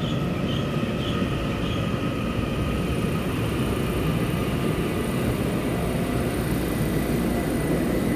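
Taiwan Railway EMU900 electric commuter train running into the station platform: a steady rumble of wheels on rail with a few faint steady tones above it.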